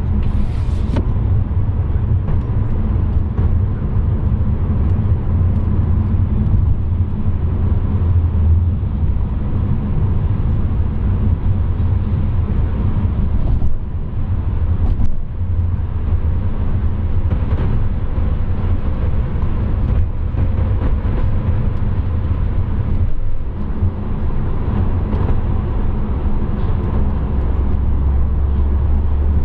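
Car driving along, a steady low rumble of engine and road noise that dips briefly a few times.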